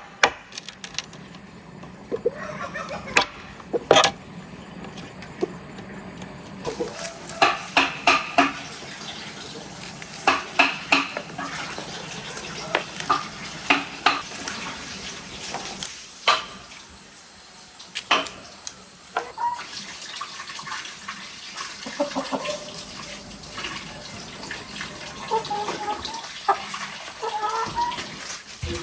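Water splashing and running, with many sharp clinks and knocks scattered through it.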